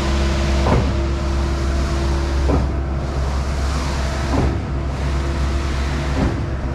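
Skid-steer engine driving a hydraulic concrete pump, running steadily with a sharp clunk about every two seconds as the pump changes stroke.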